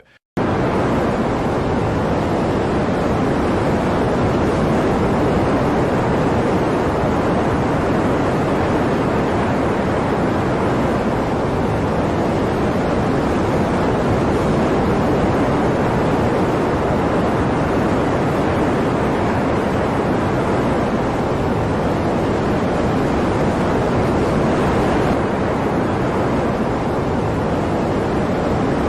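Strong storm wind blowing steadily: a loud, even rushing noise that starts abruptly and holds without gusts.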